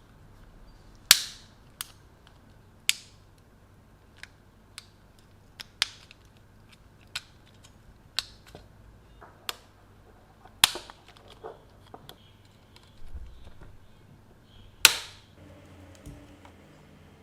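Irregular sharp clicks and knocks of hard plastic and metal drill parts being handled and set down, with four much louder snaps among many faint ticks.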